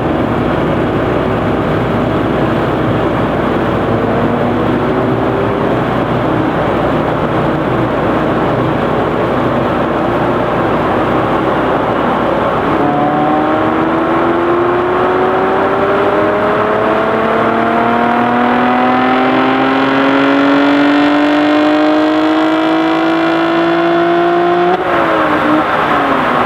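A car engine making a full-throttle pull on a chassis dynamometer. It runs loud and steady, then about halfway through its pitch climbs slowly and evenly for some twelve seconds and drops off suddenly near the end.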